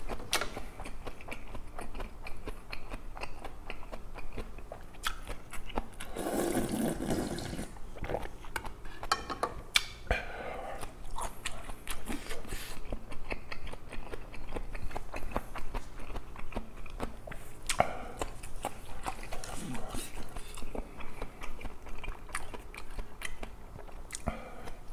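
Close-miked chewing and mouth clicks of a man eating raw green chili peppers and rice, with a louder rush of noise lasting about two seconds, about six seconds in.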